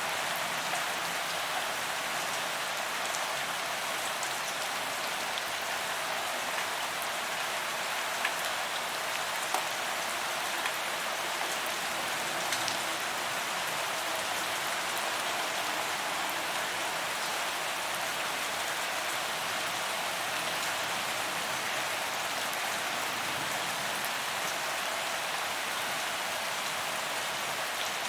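Steady rain falling on a paved promenade, an even hiss of drops hitting the pavement with a few louder individual drop ticks scattered through it.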